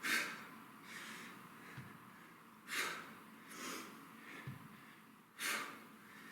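A man breathing hard under exertion during kettlebell staggered deadlift reps: four short, forceful exhalations a second or two apart. Two faint low thumps fall between them.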